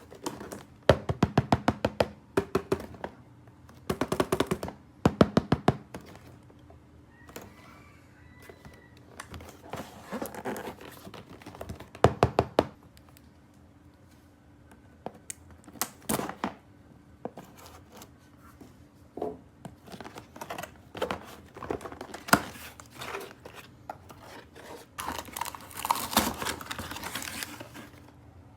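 Plastic toy pieces being handled, making scattered knocks and several fast runs of clicks, with plastic packaging crinkling near the end.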